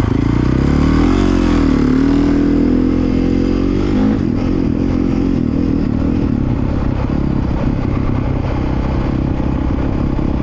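Dirt bike engine running under load on a ride, climbing in pitch in the first second or two and rising and falling with the throttle, then holding a steady note from about four seconds in.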